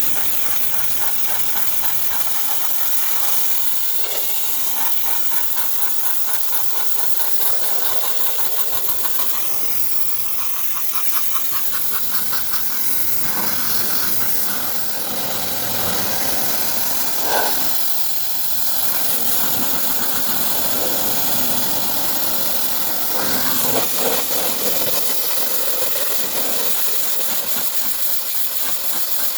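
Steady, loud hiss of a detailing tool's pressurised spray or jet, with a motor running under it. About two-thirds of the way through the hiss briefly gets louder.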